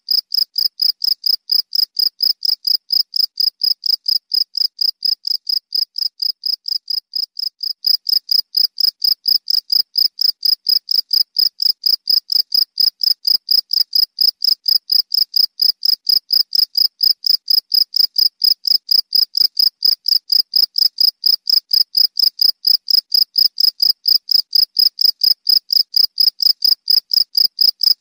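Cricket chirping in a steady, even rhythm on one high note, about three to four chirps a second, a little louder from about eight seconds in.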